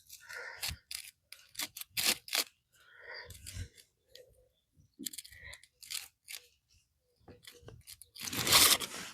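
Hands working a plastic plug connector on a power cord, pressing and tightening its housing shut: scattered clicks, scrapes and crinkly handling noise, with a louder rustling burst near the end.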